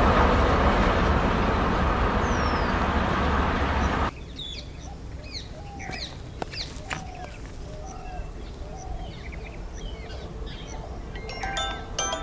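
Rumble of a passenger train's coaches running away along the track, cut off abruptly about four seconds in. Birds then chirp over a faint distant rumble as an electric train approaches. A few bright ringing tones begin near the end.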